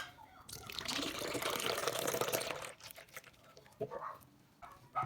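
A sharp click, then evaporated milk poured from a can into a container for about two seconds, a steady liquid pour.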